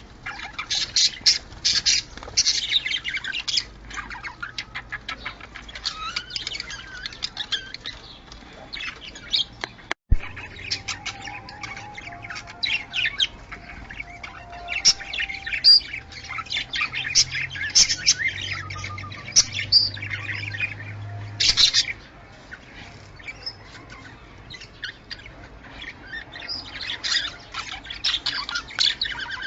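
Budgerigars chattering without pause: rapid chirps, warbles and short squawks, with a brief break about ten seconds in.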